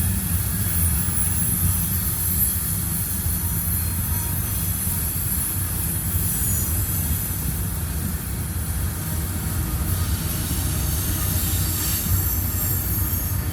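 Freight train cars rolling through a tight curve: a steady low rumble of the wheels, with high-pitched flange squeal from the wheels grinding against the rail.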